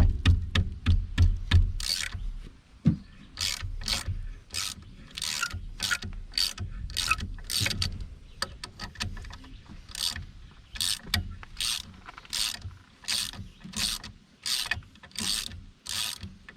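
Hand ratchet wrench clicking in repeated back-and-forth strokes, about two a second, working a brake caliper bolt loose. The strokes are quicker and denser in the first couple of seconds.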